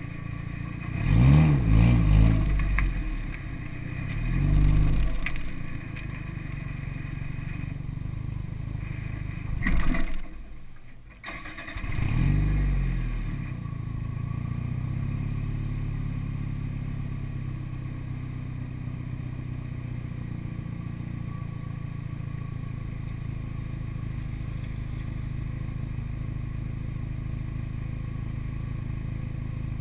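Toyota MR2 Turbo's turbocharged four-cylinder engine idling, with several throttle blips that rise and fall in pitch during the first dozen seconds, then idling steadily.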